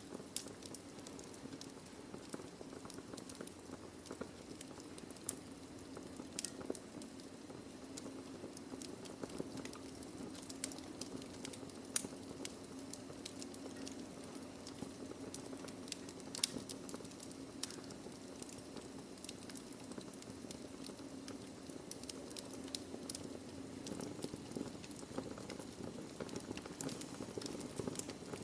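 Wood fire burning in a fireplace: steady low hiss with frequent sharp crackles and pops from the logs, one pop louder than the rest about halfway through.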